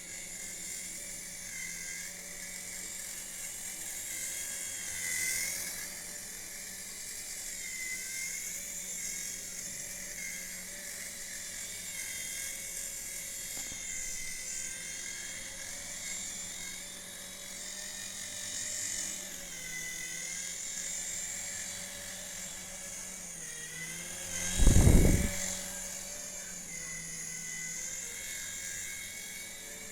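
Small electric motors and rotors of a toy RC helicopter whirring in flight, a steady high whine whose pitch wavers slightly as the throttle changes. A single loud thump about 25 seconds in.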